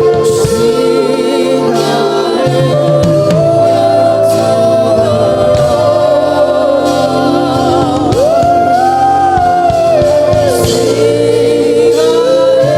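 Gospel worship music: a singer holds long, sliding notes over sustained keyboard-like chords, with a choir or congregation singing along.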